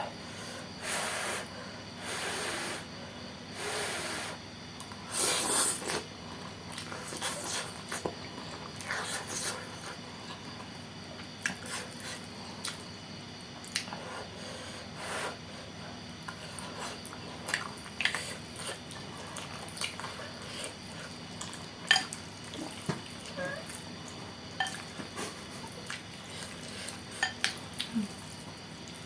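Close-up eating sounds of saucy noodles with bean sprouts: four slurps in the first few seconds, then chewing, with cutlery clinking against the bowl again and again.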